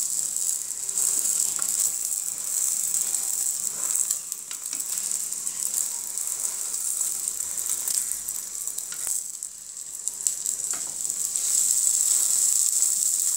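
Egg and bread omelette frying in hot oil in a non-stick pan, sizzling steadily, louder near the end. A few short scrapes and taps of a plastic spatula as the omelette is turned and folded.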